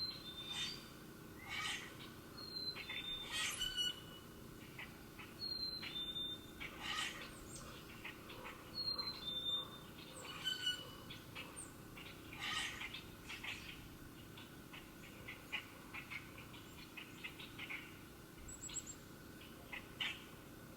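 Wild birds singing outdoors: a clear two-note whistle, the second note lower, repeats about every three seconds through the first half, among many short chirps.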